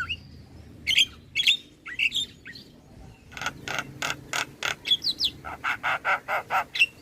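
Javan myna (jalak kebo) singing: a few short chirps and sliding whistles, then two runs of rapid, evenly spaced harsh clicks, the second run a little faster.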